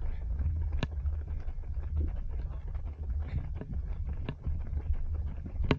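Low, buffeting rumble of wind and handling noise on a small body-worn action camera's microphone, with a few sharp clicks or knocks: one about a second in, a couple of fainter ones in the middle and one at the end.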